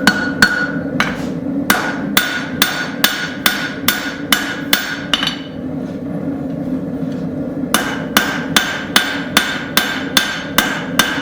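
Hand hammer blows on the hot steel of a railroad spike over an anvil, about two and a half a second with a ringing note, drawing out and thinning the blade. The blows stop for about two and a half seconds midway, then start again; a steady low hum runs underneath.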